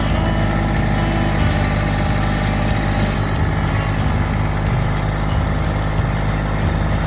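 Massey Ferguson GC1723E subcompact tractor's three-cylinder diesel engine running steadily, with background music mixed over it.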